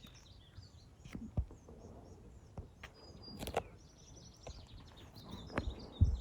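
Small birds chirping and twittering on and off, with a few sharp knocks and soft thumps scattered through, the loudest near the end, over faint outdoor background noise.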